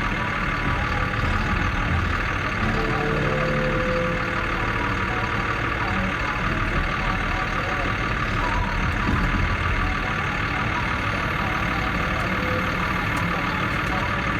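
Caterpillar D6K bulldozer's diesel engine running steadily.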